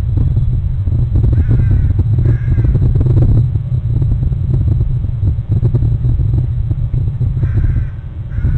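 Harsh bird calls, two about a second apart roughly a second and a half in and two more near the end, over a steady low rumble.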